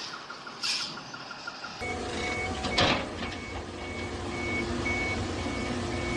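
Heavy vehicle's reversing alarm beeping evenly about twice a second over a running diesel engine, starting about two seconds in. There is one sharp loud crack about three seconds in. Faint ticking comes before the alarm starts.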